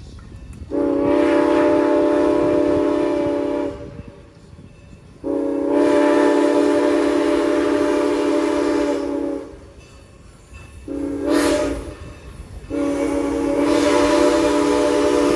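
Former Norfolk and Western 475's steam whistle blowing a chord of several notes in the long, long, short, long pattern of a grade-crossing signal; the last long blast is still sounding at the end.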